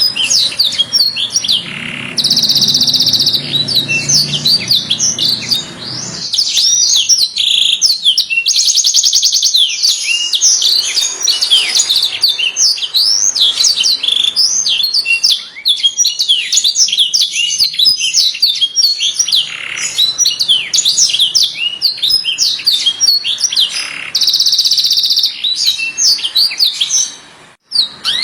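Canary song: a continuous run of quick, high chirps and sweeping notes, broken three times by fast buzzing trills, the first about two seconds in, another near the middle and the last near the end. A low hum sits underneath during the first few seconds.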